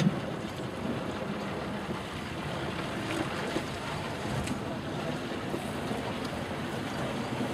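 Strong wind buffeting the microphone over the wash of water, with a short knock right at the start.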